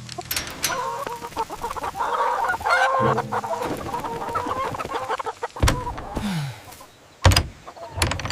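Chickens clucking and squawking excitedly, with a few sharp thuds in the second half.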